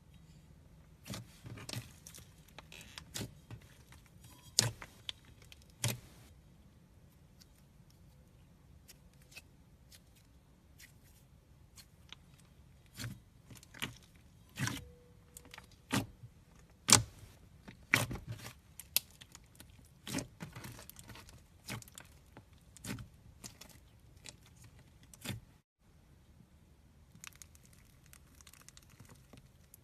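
Foam-bead slime being squeezed and worked by hand, giving irregular sharp crackles and pops, some in quick clusters.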